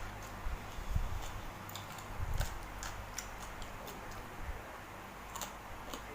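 Eating sounds: irregular sharp mouth clicks and smacks while chewing spicy seafood salad, with a few soft low thumps.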